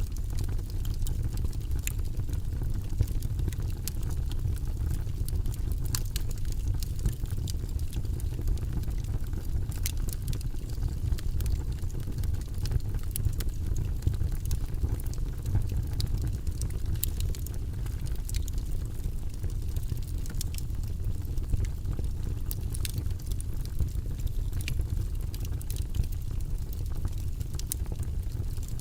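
Wood fire burning in a fireplace: a steady low rumble of flames with frequent small crackles and pops of the logs scattered throughout.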